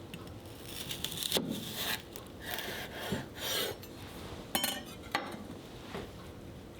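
Kitchen food-preparation sounds: several rubbing, scraping strokes, then two sharp clicks of utensils or dishes.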